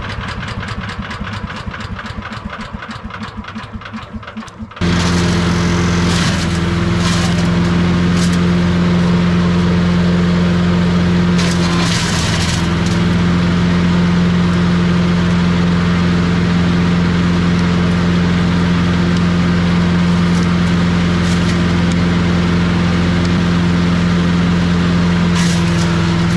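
Champion 338 cc wood chipper shredder's single-cylinder gas engine running. About five seconds in it jumps abruptly from a quieter, evenly pulsing run to a much louder steady drone at high speed, with a few short crackles over it.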